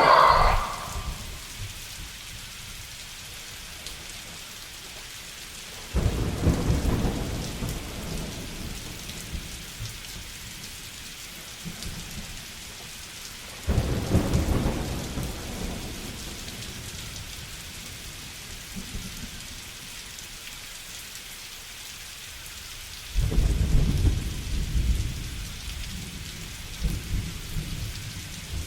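Steady rain hiss with three rolls of thunder, each starting suddenly and rumbling low before fading over a few seconds. A brief animal call trails off at the very start.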